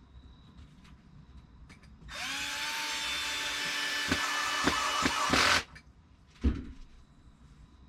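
Power drill driving a screw into the log to refasten the lathe faceplate: the motor spins up with a rising whine, runs for about three and a half seconds with a few clicks, and stops abruptly. A single thump follows about a second later.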